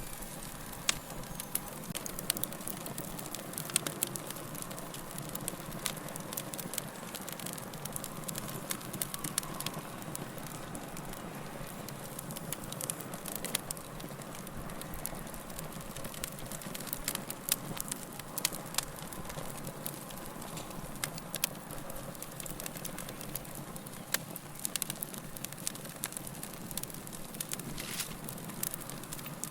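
Wood fire crackling in a fireplace: burning logs giving off irregular sharp pops and snaps over a steady low hiss of flame.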